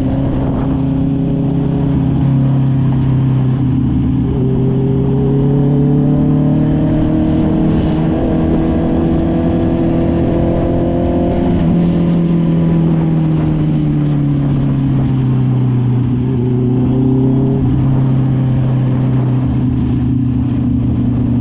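Honda CB650R's inline-four engine through an SC Project aftermarket exhaust, running steadily at cruising revs. Its pitch climbs gently for several seconds, then eases back down about halfway through and holds level.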